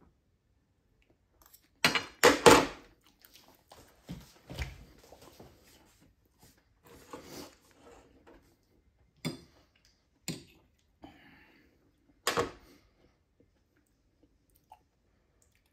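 A person chewing and crunching on seared curly dock stems, in scattered short bouts with quiet gaps between. The loudest bout comes about two seconds in.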